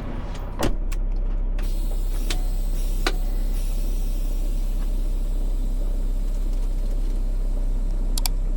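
Steady low rumble of a running vehicle heard from inside the cab, setting in with a click under a second in, with a few sharp clicks and knocks over it.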